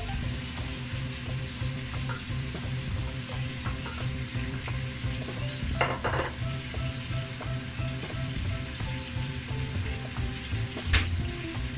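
Pieces of poultry sizzling as they fry in a pan while onion and tomatoes are added and stirred in with a wooden spatula. There is a brief double scrape about six seconds in and a sharp knock near the end.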